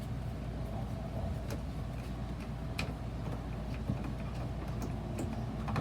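Scattered light clicks and taps from hands working on an RV toilet's plastic flush valve and its fittings, a few irregular ticks over a steady low hum.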